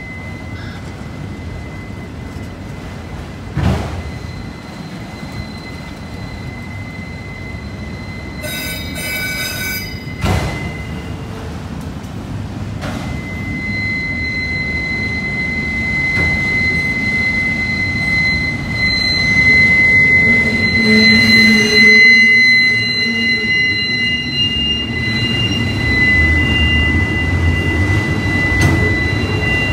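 Autorack freight cars rolling slowly past, steel wheels and rails rumbling, with a high steady wheel squeal that grows louder through the second half. Two sharp clanks from the cars, about 4 and 10 seconds in.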